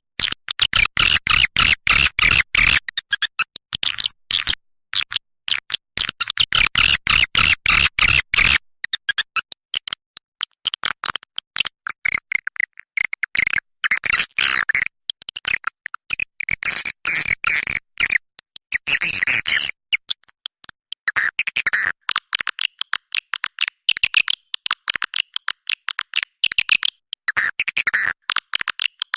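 Recorded swiftlet lure call: rapid buzzy twittering made of dense trains of clicks and chirps, coming in bursts with short gaps, the loudest and densest bursts in the first nine seconds.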